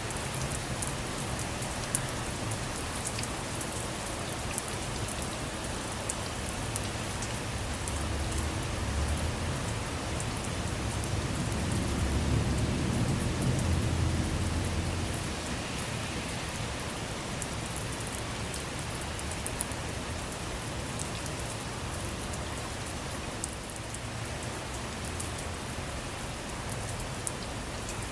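Steady rain falling on a car, with individual drops ticking sharply against it. A low rumble of thunder swells about a third of the way in and fades a few seconds later.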